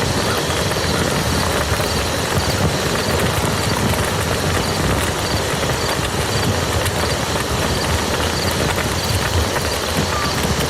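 Steady rain falling on a muddy field, many separate drops hitting at once. A faint high chirp repeats about twice a second.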